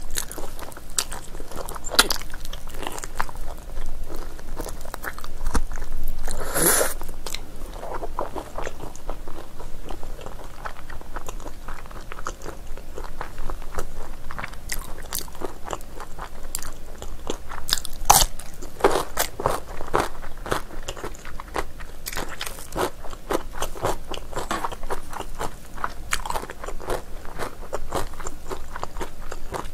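Close-miked chewing and biting of chewy spicy braised ox feet, a dense run of wet smacks and clicks from the mouth. There is one louder, longer smack about seven seconds in.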